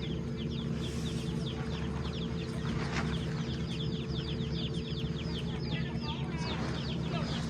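Several chicks peeping continuously, a rapid stream of short falling cheeps, over a steady low hum.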